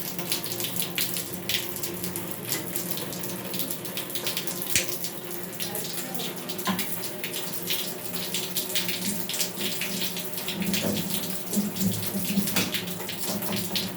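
Water running from a tap into a sink while a plumbing part is worked out by hand, with many scattered small clicks and knocks of metal and tools over a low steady hum.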